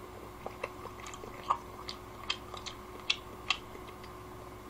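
A person eating with chopsticks: quiet chewing with a dozen or so short, faint mouth clicks and smacks scattered irregularly through.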